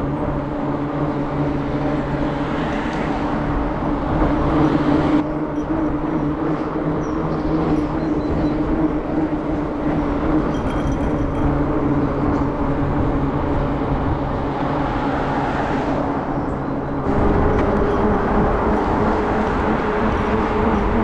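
Fat bike's knobbly fat tyres humming on tarmac while riding, a steady drone whose pitch steps up about seventeen seconds in as the bike speeds up.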